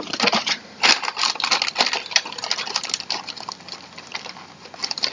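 Close crinkly rustling and rapid clicking of packaging and small chair parts being handled, with a few louder snaps about one and two seconds in.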